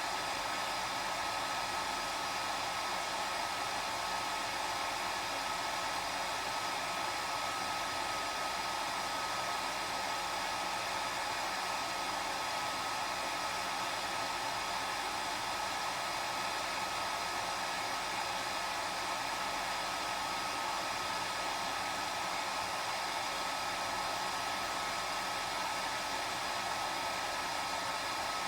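Hair dryer running steadily: an even rush of air with a thin high whine held at one pitch, unchanging throughout.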